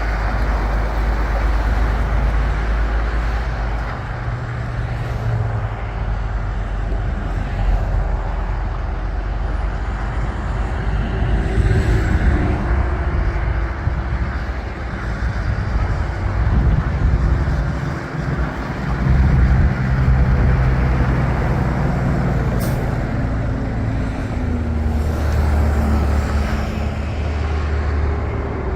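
Engine of a 1986 International 1954 flatbed truck running, its speed rising and falling as it is driven, with a brief sharp sound about three quarters of the way through.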